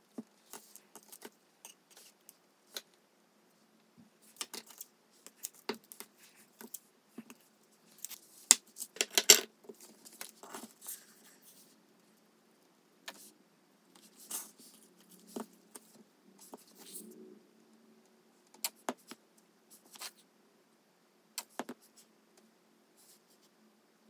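Small clicks, taps and rustles of hands handling a clear plastic toploader, paper flower and leaf embellishments, a squeeze bottle of glue and tweezers on a desk. The sounds come irregularly, with quiet gaps between them, and the loudest cluster is about nine seconds in.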